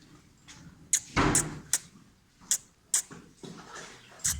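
Five sharp clicks at uneven spacing, roughly half a second to a second apart, with a short breathy rush just after the first.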